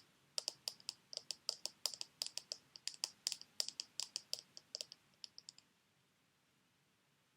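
Rapid fingernail tapping on sheet mask packets, about five crisp clicks a second, stopping suddenly about two seconds before the end.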